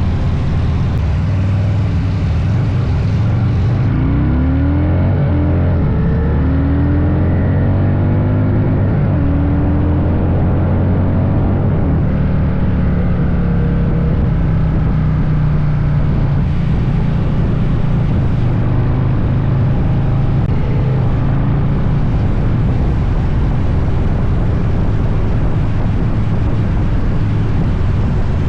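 Motorcycle engine running at road speed with wind noise, its pitch rising a few times about a quarter of the way in as it accelerates through the gears.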